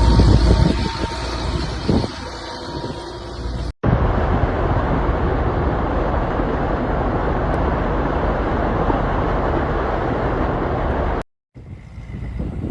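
Floodwater rushing down a wadi after heavy rain: a loud, steady rushing noise. It comes in short clips joined by abrupt cuts, and the first clip has a heavier low rumble.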